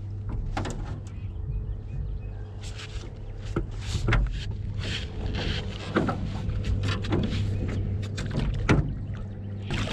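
Wind rumbling on the microphone aboard a rowboat, with scattered clicks and knocks from fishing gear and the boat.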